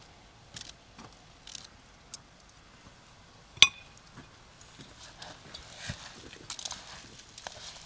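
Hand food-preparation sounds: soft squishing and rustling, with one sharp clink that rings briefly, like a utensil striking a bowl, about three and a half seconds in.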